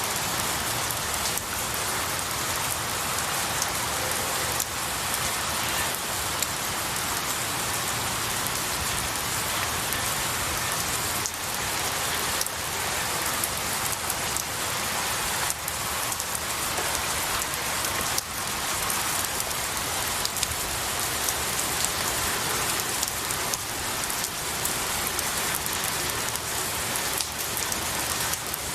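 Steady rain falling on pine needles and tree branches, an even patter with many single drops striking throughout.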